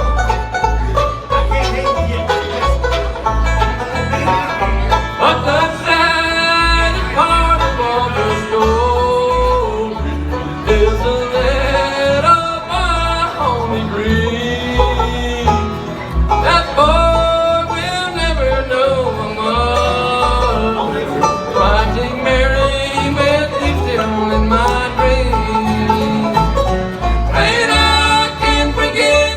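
Live bluegrass band playing, with singing over plucked strings and a steady bass beat.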